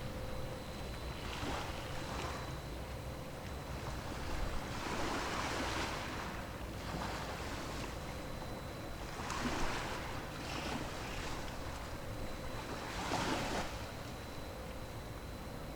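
Sea waves washing in every few seconds, each swell a rising and falling hiss, over a steady low rumble of wind and water.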